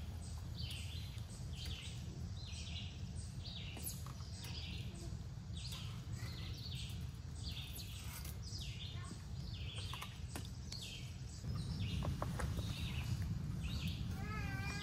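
A bird calling over and over, a short chirp about once a second, above a steady low outdoor rumble that gets louder about three-quarters of the way through. Near the end a wavering whistle-like tone comes in.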